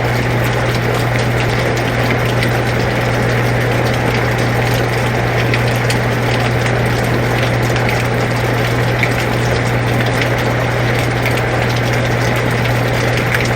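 Air conditioner running with a steady low hum, mixed with rain falling as an even hiss dotted with faint ticks of drops.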